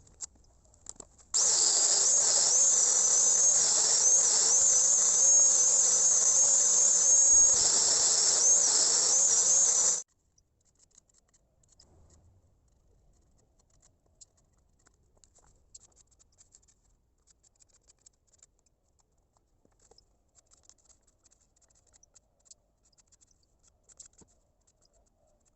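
A power tool running with a high, wavering whine over a hiss for about eight seconds, starting a second or so in and cutting off abruptly; faint ticks follow in near silence.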